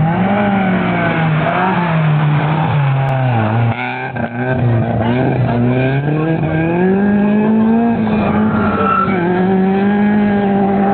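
Rally car engine being driven hard, its note rising and falling as the driver accelerates and lifts, with a brief lift-off and dip about four seconds in, then climbing and holding high near the end.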